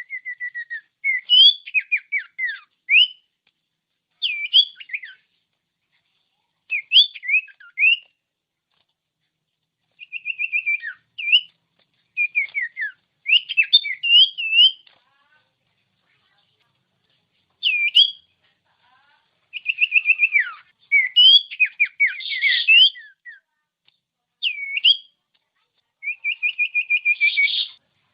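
Common iora (cipoh) singing: short phrases of rapid trilled notes and sharp up-slurred whistles, repeated with brief silent gaps between them.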